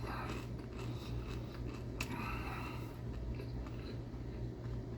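A person chewing a crunchy snack, with crackly crunching and a sharp click about two seconds in, over a steady low hum.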